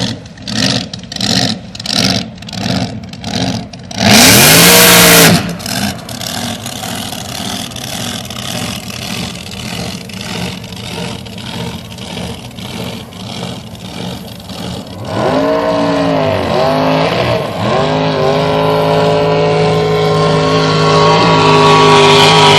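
Drag boat engine revving. It pulses about twice a second at first, then gives a very loud burst of revs about four seconds in. Later it revs up and down again and finishes with a long, steadily climbing pull.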